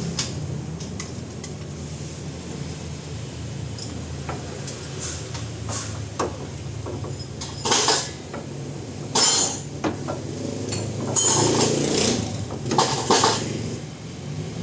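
Metal tools and parts clinking and clattering against each other, with several sharp clinks in the second half, over a steady low hum.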